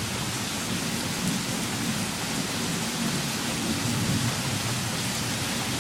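Heavy thunderstorm rain falling steadily, with a low rumble underneath.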